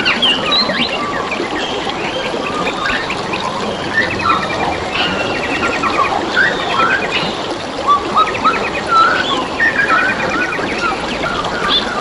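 Several wild birds chirping, whistling and trilling over a steady rush of trickling, flowing water, with a few fast trills in the middle and near the end.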